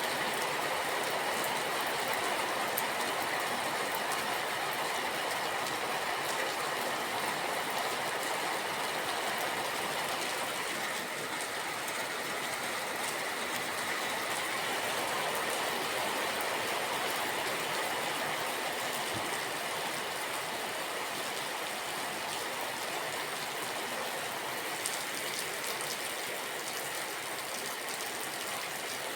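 Steady rain, an even hiss that holds at one level.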